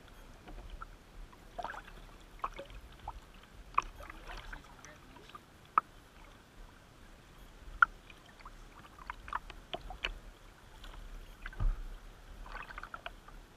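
Kayak paddling on a river: irregular paddle strokes splashing and dripping, water lapping at the hull, with a few sharp knocks and a dull thump near the end.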